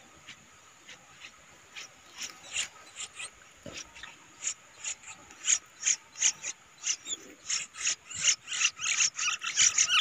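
Yellow-vented bulbul fledglings giving short, high, scratchy begging calls, a few at first and then faster and louder through the second half.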